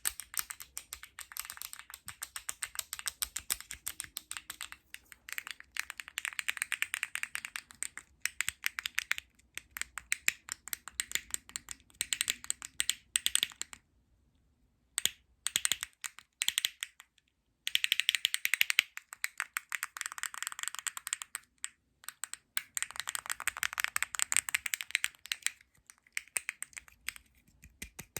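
Fast ASMR tapping and scratching on small plastic and cardboard objects: dense runs of rapid clicks and rattles, broken by two brief silences around the middle.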